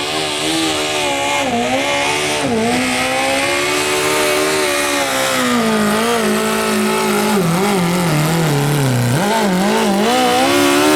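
Modified lawn tractor's engine running hard at high revs as it pulls the sled down the track. Its pitch wavers and sags lower for a few seconds past the middle as the engine labours under the load, then climbs again near the end.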